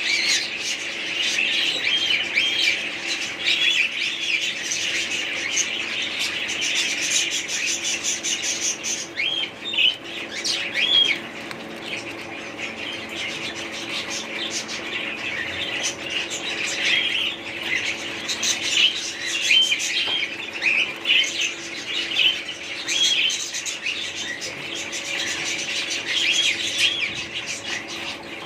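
A flock of small pet birds chirping and chattering without a break, many short gliding calls overlapping, over a steady low hum.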